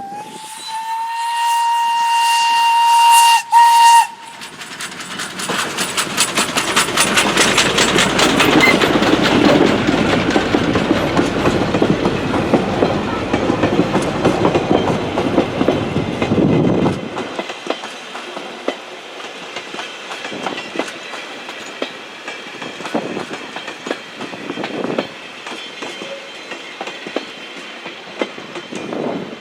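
Steam train's whistle sounding one long steady note for about four seconds. The train then passes close by with a loud rumble and rapid beats. The noise drops off sharply about 17 seconds in to a quieter run of wheel clicks as it moves away.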